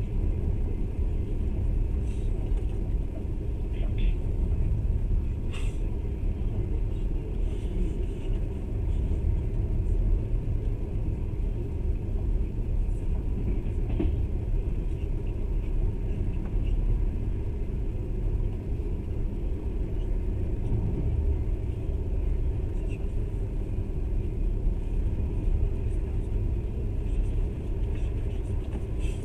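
Passenger train running at speed, heard from inside the carriage: a steady low rumble of the wheels and carriage on the track, with a couple of faint short clicks about six seconds in and again about halfway.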